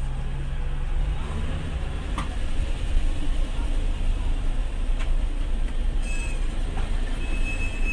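Steady low rumble of a road vehicle driving, with a couple of sharp knocks and a thin, high-pitched whine near the end.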